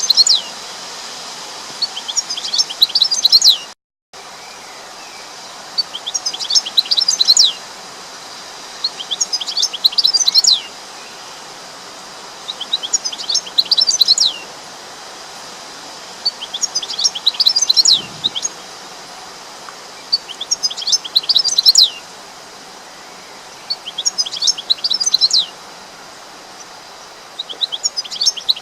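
A bird singing the same short phrase of quick, high, falling chirps over and over, about once every three and a half seconds, over a steady background hiss. The sound cuts out completely for a moment about four seconds in.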